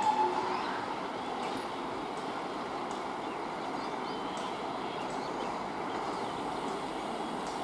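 Steady, even rumble of an electric-locomotive-hauled passenger train approaching at a distance, with a few faint clicks. A brief tone sounds right at the start.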